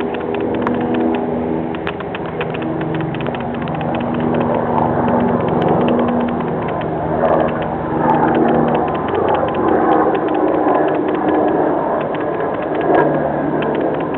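1946 Hudson pickup's 232 flathead straight-six idling steadily after a cold start on a freezing morning, with a fast, even ticking over the low engine note.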